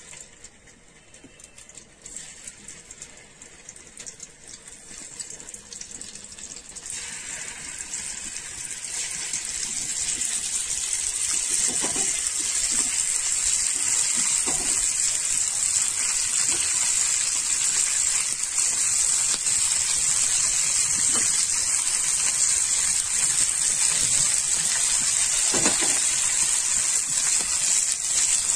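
Stuffed okra pieces frying on a hot flat iron tawa: a sizzle that builds over the first ten seconds as more pieces go onto the pan, then holds steady, with a few soft knocks.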